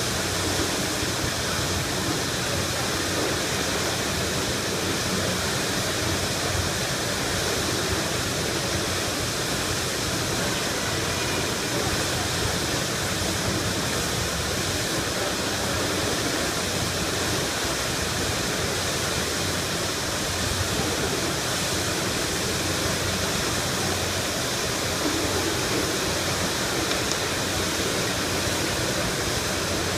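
Water gushing from a fire hydrant broken open by a truck, shooting up in a geyser about four stories high: a steady, unbroken rush.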